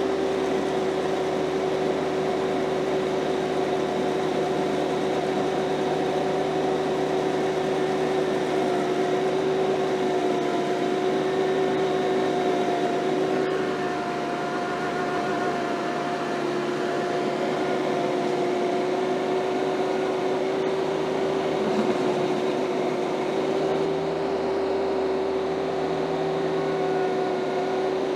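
Kioti CS2520 subcompact tractor's three-cylinder diesel engine running at a steady speed, driving a Woodland Mills PTO stump grinder, with a steady whine.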